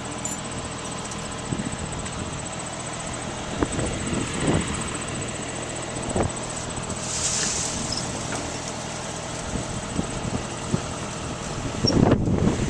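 Heavy farm machinery engine running steadily, with a thin high whine over it and a few scattered thumps and clunks, busier near the end.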